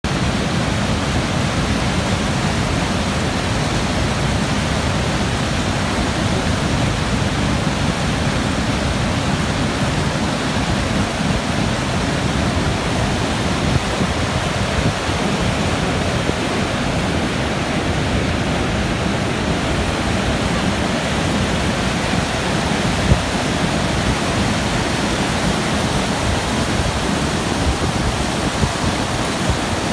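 Waterfall: water falling and crashing in a steady, loud rush.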